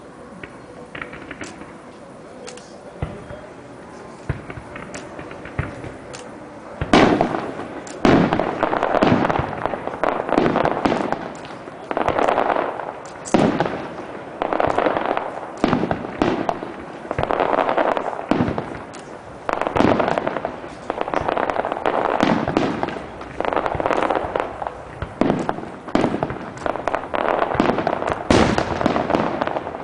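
Aerial fireworks display. A few faint pops at first, then from about seven seconds in a rapid run of loud shell bursts, roughly one a second, with crackle between them.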